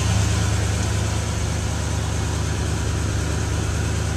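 1976 Corvette Stingray's 350 small-block V8 idling steadily with a low exhaust rumble.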